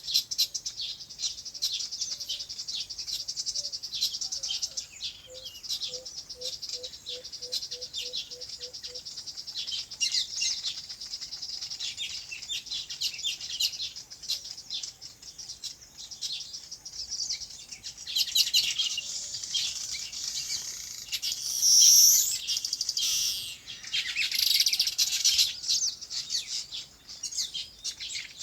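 Many small birds chirping and twittering together in a dense, continuous chorus, with a louder burst of calls about three-quarters of the way through. For a few seconds early on, a low note repeats about three times a second beneath the chirping.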